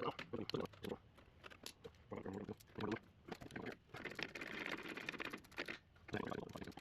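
Hand tools clicking and tapping against metal brake parts, with a longer stretch of scraping or rasping about two-thirds of the way through.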